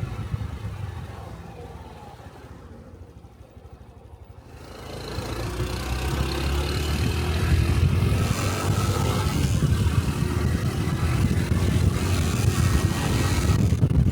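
Small Honda Cub 125 cc single-cylinder motorcycle engine on the move. Over the first couple of seconds it winds down to a quiet low running, then about four and a half seconds in it pulls away, growing louder with wind rush and holding a steady cruise.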